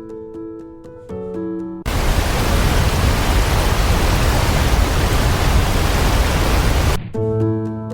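Background music with steady notes and a ticking beat, broken about two seconds in by a loud, even hiss like static that cuts off abruptly about five seconds later, when the music returns.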